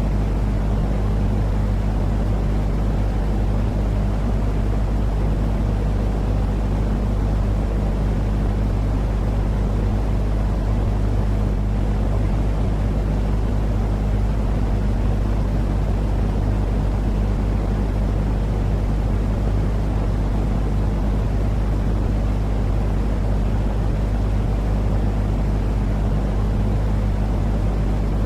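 Continuous soothing sleep noise for babies: a steady, unchanging low-pitched rumble with a constant hum underneath.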